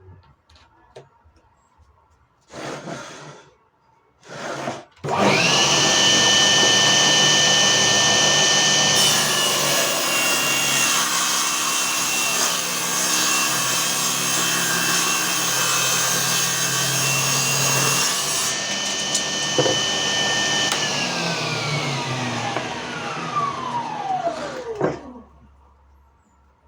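Two short noises, then a 997 24 V DC motor spins a 7-inch 24-tooth circular saw blade up to a steady high whine. For about nine seconds the blade cuts wood with a harsh rasping noise. It is then switched off, and the whine falls in pitch as the blade spins down to a stop.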